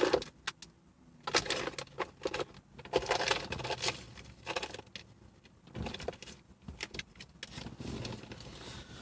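Hands rummaging through small loose items in search of a condiment packet: bursts of clicking, rattling and rustling, with short pauses between them.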